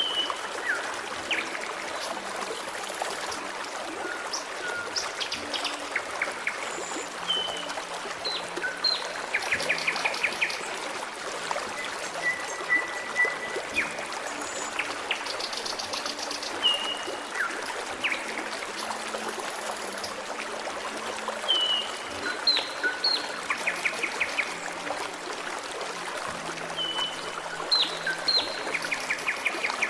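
Forest stream trickling steadily, with songbirds singing over it: short whistled calls and quick trills every few seconds, and one held whistle a little past twelve seconds in.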